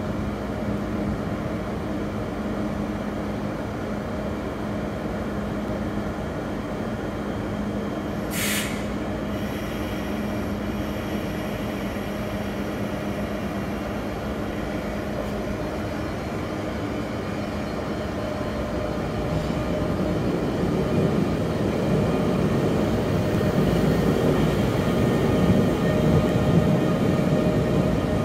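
ICE high-speed electric trainset at a platform: a steady electrical hum from the standing train, a short hiss of compressed air about eight seconds in, then, from about twenty seconds in, rising running noise as it pulls away.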